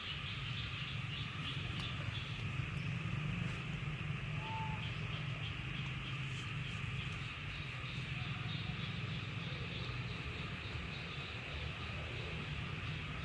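Steady insect chorus over a low steady hum, with a single short chirp about four and a half seconds in.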